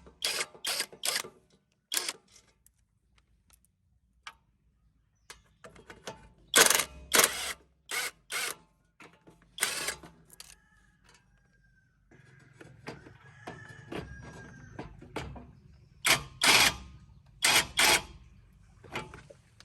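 Sharp metallic clinks and knocks of hand tools and loose metal parts, coming in clusters of a few strikes each: near the start, about midway, and near the end. A low hum runs through the stretch between the second and third clusters.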